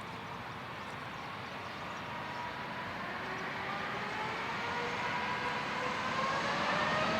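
Jet airliner's engines approaching, a steady rush growing louder throughout, with a whine rising in pitch over the last few seconds.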